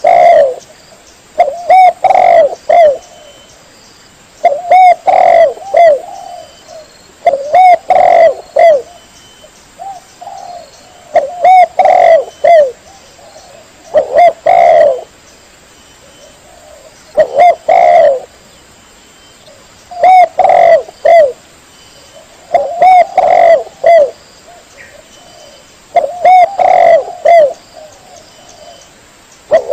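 Spotted dove (tekukur) cooing from a looped call recording. A short phrase of a few coos repeats about every three seconds.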